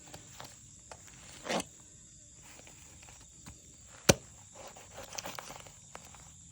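Faint rustling and crackling with scattered light clicks, a short rustle about one and a half seconds in and one sharp click about four seconds in.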